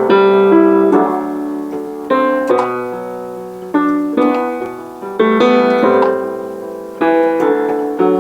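Piano playing a slow tune in chords, a new chord struck about once a second and left to ring and fade.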